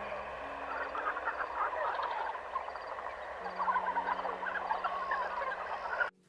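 A dense chorus of many short, overlapping animal calls over a few sustained low music notes; it all cuts off suddenly near the end.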